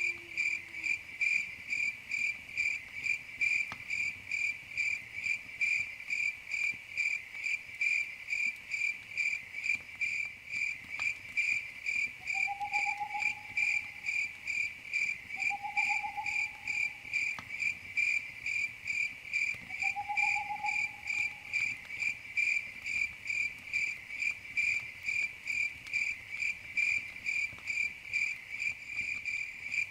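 Crickets chirping steadily in an even rhythm, about two to three chirps a second. Three short, lower calls come around the middle, and a few faint clicks.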